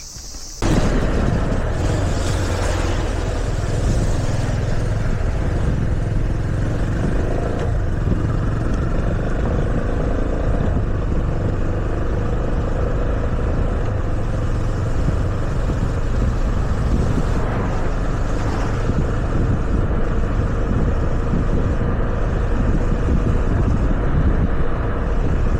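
Yamaha FZS25 motorcycle under way: steady engine and road noise mixed with wind rushing over the microphone, starting abruptly about half a second in.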